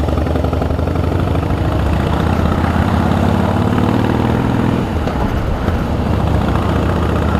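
Harley-Davidson V-twin motorcycle engine running steadily while riding. Its note climbs a little, then dips briefly about five seconds in.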